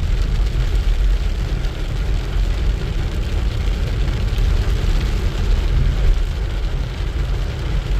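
Steady low rumble of a car on the move: road and engine noise heard from inside the vehicle.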